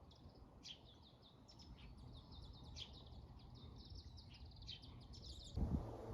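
Small birds chirping and twittering in quick high-pitched trills. About five and a half seconds in the calls stop abruptly and a low steady hum takes over.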